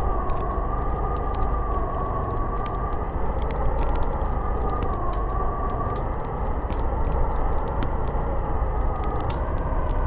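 Snowstorm wind blowing steadily, with a wavering howl that drifts slowly up and down in pitch over a dense rushing noise. Scattered small sharp clicks and ticks sound throughout.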